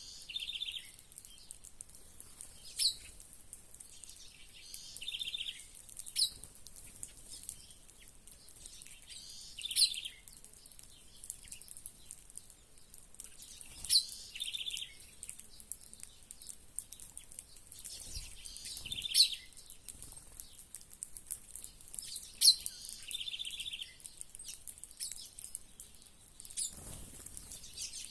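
Songbirds calling: a sharp, high chirp and a short buzzy trill, repeated every three to four seconds, over a faint steady high hiss.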